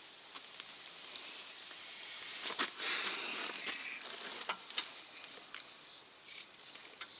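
Tool handling at a tight oil filter: scattered light clicks, and a brief scraping rush about two and a half seconds in, as an adjustable oil filter wrench is worked against a stuck filter.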